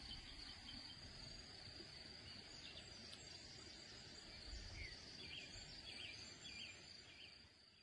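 Faint outdoor ambience: a steady high insect drone, with a bird chirping four times in the second half. It fades out at the end.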